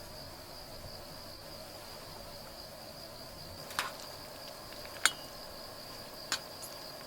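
Steady, high-pitched chirring of insects, with three sharp clicks spaced about a second and a quarter apart in the second half.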